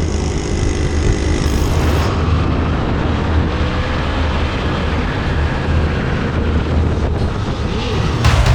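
Motorcycle riding on the road: a steady engine drone under heavy wind rumble on the microphone.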